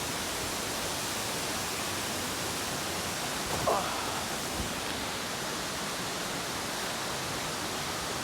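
Steady, even rushing of water from a nearby waterfall and stream. A short sound rises briefly above it about three and a half seconds in.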